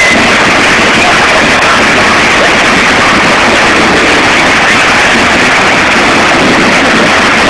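Waterfall: a loud, steady rush of falling water with no letup.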